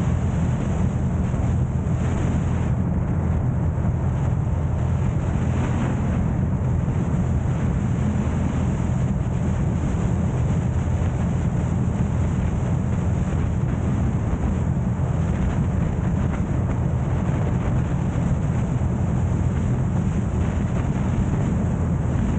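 Steady road and wind noise from a car being driven, a low rumble with wind rushing over the microphone.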